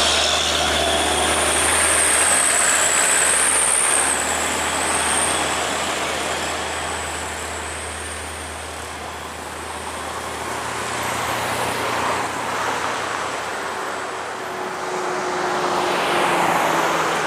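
Heavy diesel trucks passing on a steep highway climb, with engine and tyre noise. A high, wavering whine sounds during the first few seconds, and the traffic swells again near the end as another vehicle goes by.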